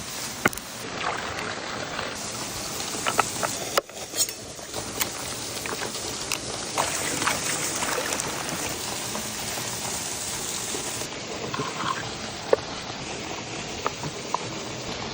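Campfire cooking: a steady sizzling hiss with scattered crackles and pops from the burning wood, briefly dropping out about four seconds in.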